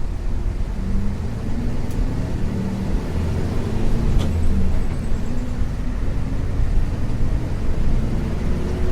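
Isuzu U-LV224N bus's 6QB2 diesel engine running as the bus drives along, heard from inside the passenger cabin, its note drifting slightly up and down. There are a couple of faint clicks about two and four seconds in.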